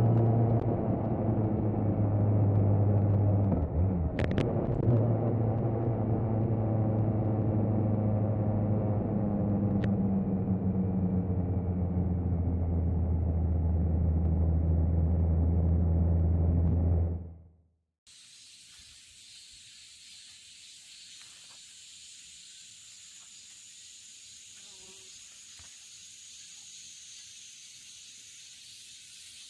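Kawasaki Z900's inline-four engine running at a steady speed, its note dipping briefly about four seconds in. It fades out abruptly and gives way to a faint, steady hiss.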